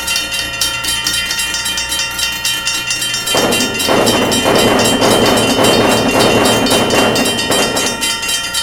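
Railroad crossing warning bell ringing rapidly and evenly. About three seconds in, the noisy rush of a passing train joins it and runs on nearly to the end.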